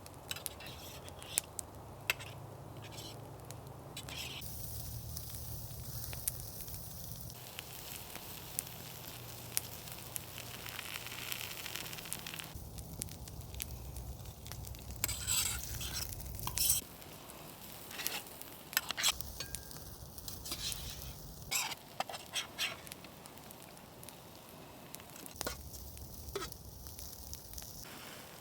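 Food sizzling in the heat of a campfire, a steady hiss for the first half or so that drops away about two-thirds through, with sharp crackles and pops from the burning wood scattered throughout.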